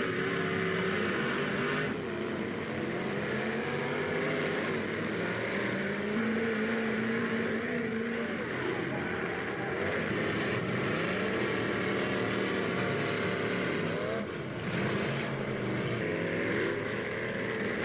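Engines of several old full-size cars running and revving, their pitch rising and falling as they drive and ram about.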